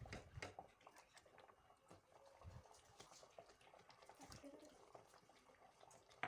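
Near silence with faint, irregular small clicks and taps from a pan of butter chicken gravy being worked on the stove, with one sharper click near the end.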